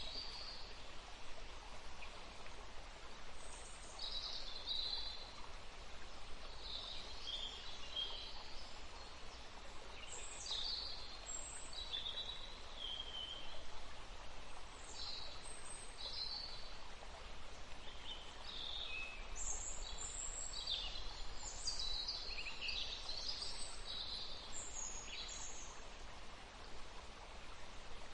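Forest birds singing short, repeated phrases over the steady rush of a stream.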